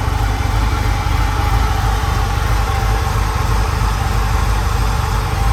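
Freshly built LS 408 stroker V8 idling steadily, with no rise or fall in revs.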